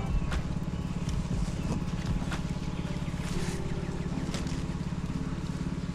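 An engine idling steadily with a fast, even low pulse, with a few light clicks over it.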